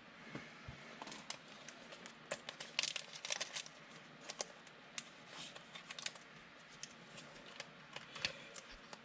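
Irregular light clicks and taps from hands working at a desk, with a quick cluster about three seconds in.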